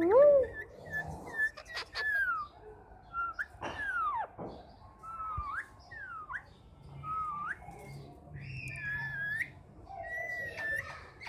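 A green pet parrot giving a loud call at the start, then a string of short, clear whistles that glide up and down in pitch, some rising and some falling.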